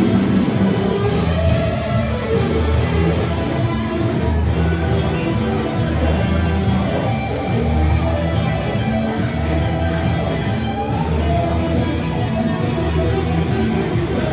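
Live rock band playing a song with a steady beat that comes in about a second in.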